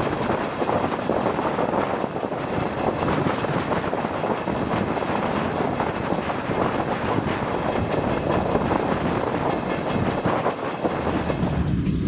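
DR1A diesel multiple unit running along the track: a steady din of wheels and running gear with some clickety-clack. Near the end the sound changes abruptly to a deeper rumble.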